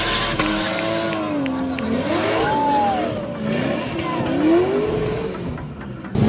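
Drift car's engine revving up and down again and again as it slides, its pitch rising and falling, easing off briefly near the end.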